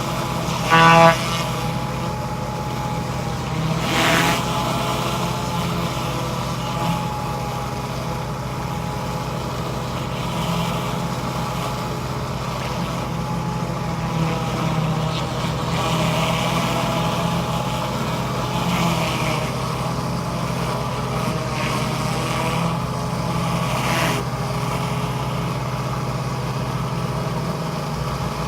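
Pressure washer's motor running steadily with an even hum. A brief loud toot sounds about a second in.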